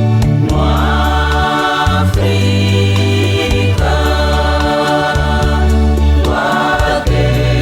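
Choir singing gospel music with sustained bass notes, the chords changing every second or two.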